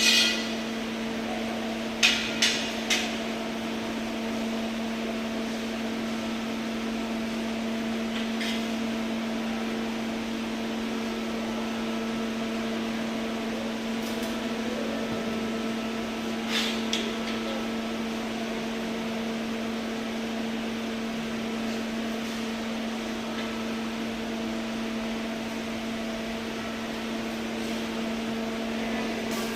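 Steady electrical hum of a welding machine running over a constant hiss. Three sharp metallic taps come about two seconds in and a quieter pair about halfway through.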